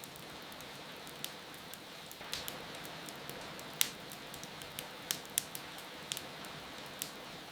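Steady rain hiss with a wood fire crackling over it in irregular sharp pops, the loudest a little under four seconds in.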